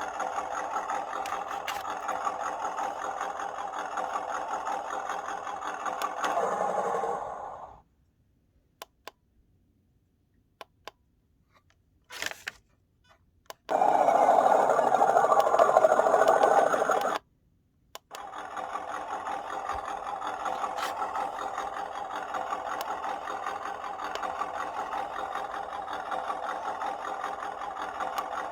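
Simulated engine sound from an RC truck's add-on sound module played through its small speaker: a steady idle that swells and then winds down to a stop about seven seconds in. Several seconds of near silence with a few faint clicks and a short blip follow. Then a loud burst of about three and a half seconds, the module's start-up sound, and the idle starts up again.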